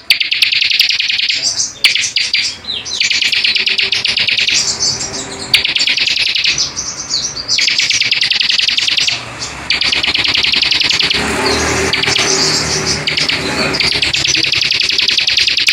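Recorded songbird song: fast, dense trilling chatter in phrases of a second or two, repeated with short pauses.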